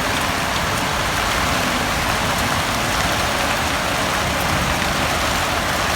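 Heavy rain falling steadily, an even hiss with no letup and no thunder.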